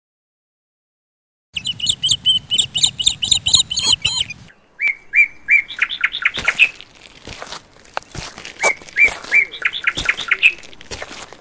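Birds chirping. After a second and a half of silence there is a fast run of high, repeated chirps, then slower, lower chirps mixed with scattered clicks.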